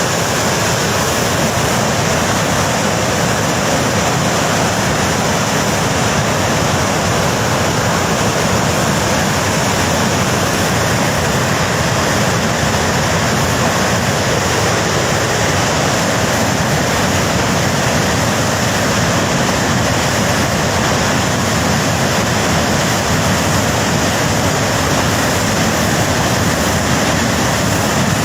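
Floodwater rushing in a steady, loud torrent, an unbroken noise with no separate events.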